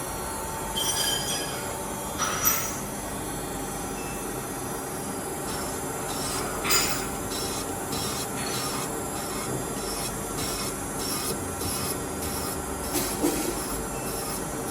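Line boring machine cutting the main bearing bores and thrust washer seat in a Ford 2.3L EcoBoost aluminium block: a steady metal-cutting squeal and scrape. From about five seconds in it pulses about twice a second.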